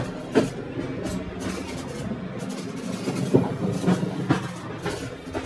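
Passenger train wheels running over rail joints: irregular clicks and knocks over a steady rolling rumble.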